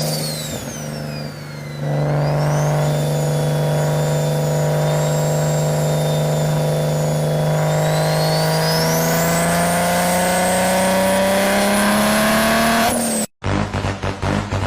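Motor vehicle engine running with a high whine above it. The engine note holds steady, then climbs slowly as it revs up over the last few seconds. It cuts off suddenly, and beat-driven music follows.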